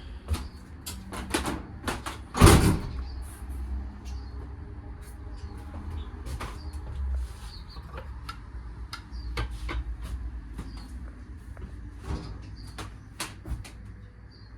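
Scattered clicks and knocks, with one much louder knock about two and a half seconds in, over a low steady rumble.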